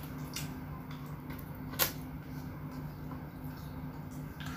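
Faint chewing sounds of French fries being eaten, with one sharp crunch or click about two seconds in, over a steady low hum.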